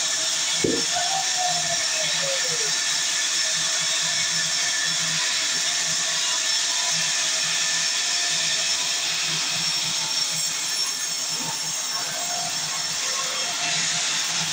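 Sawmill saw running with a steady, high, hissing whine. A short falling tone comes about a second in.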